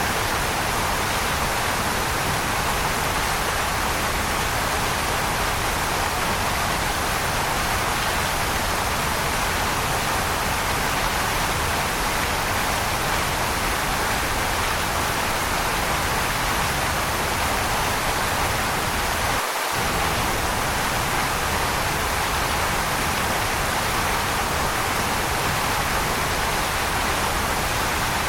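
Waterfall rushing steadily: an even, unchanging hiss of falling water.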